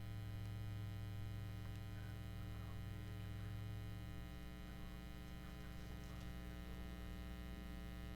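Steady electrical mains hum with a stack of overtones, its low drone stronger through the first half and easing about four seconds in. Faint scattered handling noises sit underneath.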